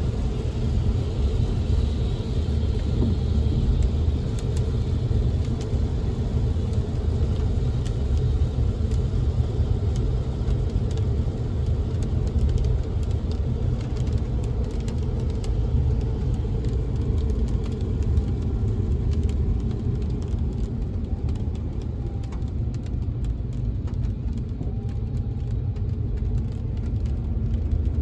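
Inside a moving car in the rain: a steady low rumble of the car on the road, with scattered light ticks of raindrops tapping on the window.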